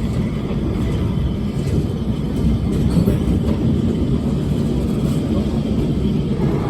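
Lisbon Tram 28 streetcar running along its rails, heard from inside the car: a steady low running noise with faint scattered clicks.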